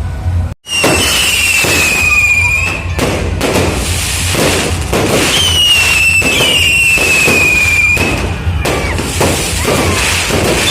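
Fireworks going off: three high whistles, each sliding slightly down in pitch over a second or two, among rapid sharp pops and crackles.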